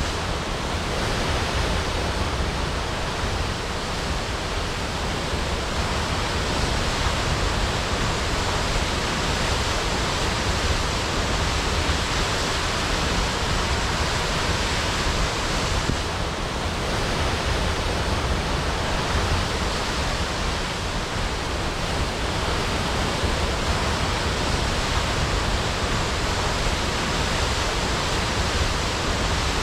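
Waterfall crashing: a steady, even rush of falling water with no breaks.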